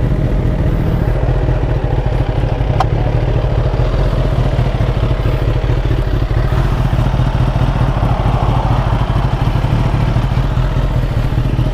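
Sportbike engine running steadily, a constant low rumble with no change in pitch.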